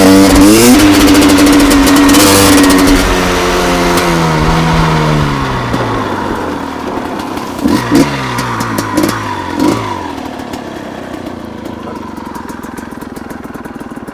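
Gas Gas EC250 two-stroke enduro engine held at high revs, then rolling off and falling in pitch as the bike slows. A few short throttle blips follow, then it settles to quieter, low running near the end.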